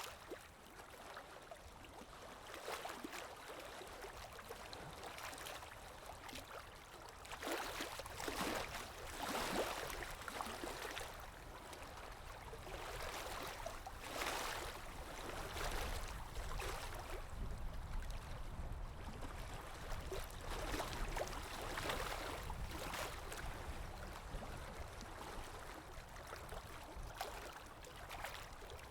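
Water lapping and splashing in irregular swells every few seconds over a steady low wind rumble, from a library ambience recording.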